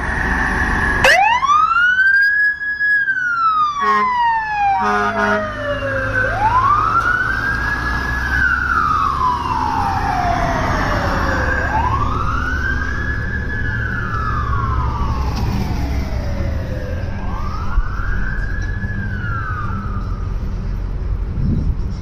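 Fire truck siren wailing in repeated cycles: each one rises quickly and then falls slowly in pitch, about four times over. Two short horn blasts sound about four and five seconds in, over a steady low engine rumble.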